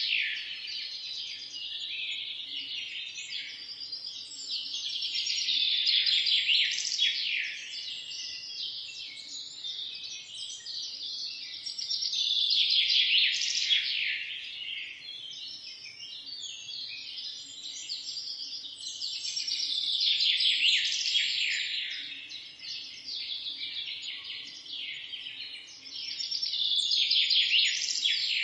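Many small birds chirping and singing together in a dense, continuous chorus of rapid high chirps, swelling louder about every seven seconds.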